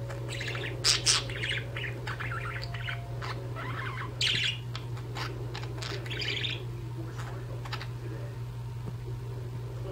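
Two budgerigars chirping and warbling in quick, busy chatter, with the loudest sharp calls about a second in and again past the four-second mark, thinning to occasional single chirps after about six seconds. A steady low hum runs underneath.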